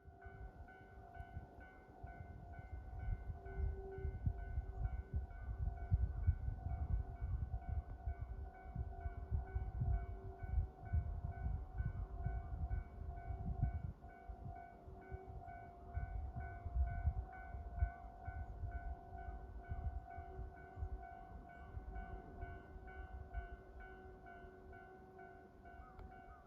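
DF200 diesel-electric locomotive running by, a low rumble that rises and falls, loudest from about three to thirteen seconds in. Several steady high tones pulse regularly over it.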